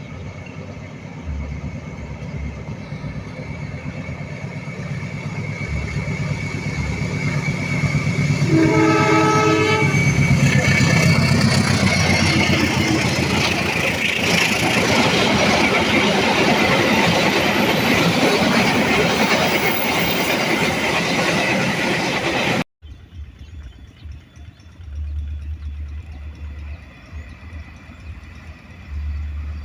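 Indonesian diesel-hauled passenger train approaching and sounding its horn about nine seconds in, then passing close with engine noise and wheel clatter. The sound cuts off abruptly about two-thirds of the way through, leaving a quieter low rumble.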